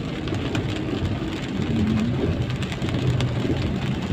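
Road traffic in the rain: a vehicle engine hums under a steady hiss of rain and wet road, with faint scattered ticks.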